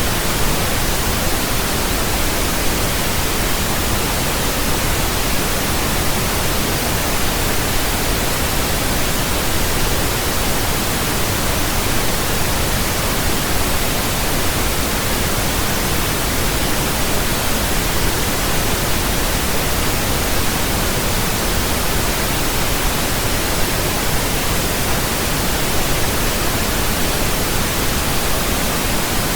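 Steady synthetic pink noise: an even, unchanging hiss spread across the whole range, deeper than white noise.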